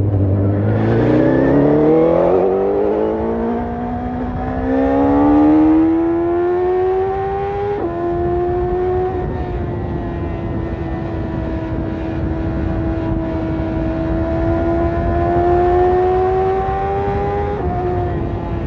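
BMW S1000RR's inline-four running through an Akrapovic carbon exhaust under acceleration. The engine pitch climbs steadily for about eight seconds, drops sharply at a gear change, then holds nearly steady while creeping upward, and drops again at another change near the end.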